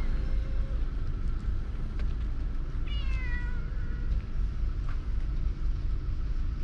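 A cat meows once, about three seconds in: a short call falling in pitch, over a steady low background rumble.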